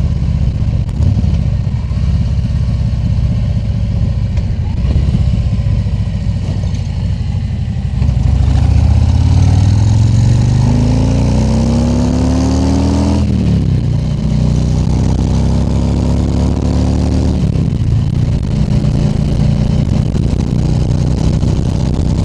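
Harley-Davidson Tri Glide Ultra trike's V-twin engine under way, with wind rush over a helmet-mounted microphone. About eight seconds in the engine pulls harder, its pitch rising for several seconds, then drops at a gear change about thirteen seconds in. It shifts once more a few seconds later and settles to a steady cruise.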